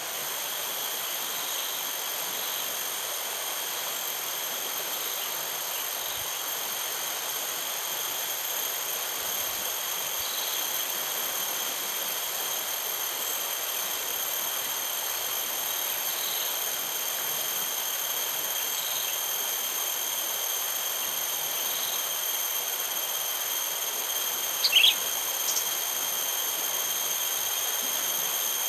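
Steady drone of insects: several constant high-pitched tones over an even hiss. Faint short bird chirps come every few seconds, and a louder short bird call sounds about 25 seconds in.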